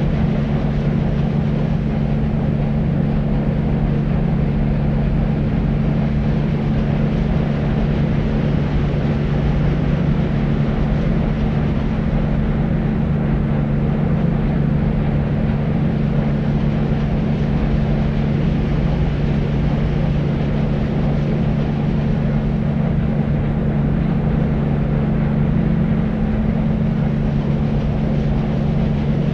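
Deep white noise: a steady, unbroken hiss weighted toward the low end, with little treble.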